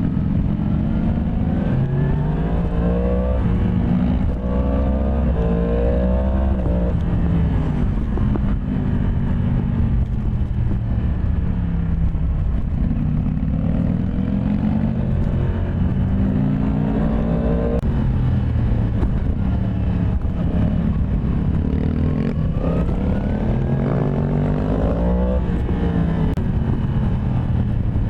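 Yamaha MT-10 SP's crossplane inline-four engine under way, revving up in several rising sweeps and dropping back in pitch between them as the bike shifts gear or rolls off the throttle, with one sudden drop about two thirds of the way through.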